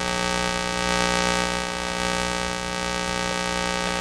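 Steady electrical hum, a dense set of even tones over a light hiss.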